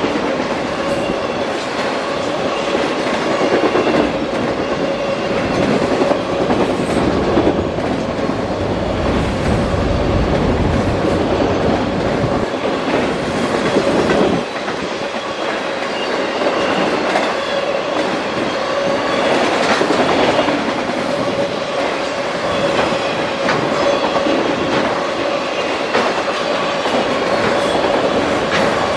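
Freight train of autorack cars rolling steadily past: continuous wheel-on-rail noise with clickety-clack over the rail joints. A steady squeal of wheels on the rail runs through it, and a heavier low rumble comes in from about eight to fourteen seconds in.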